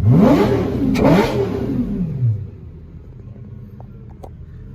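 Lamborghini Gallardo Superleggera V10 with an aftermarket exhaust and high-flow cats, revved twice in quick succession. The second rev falls back to a steady idle about two seconds in.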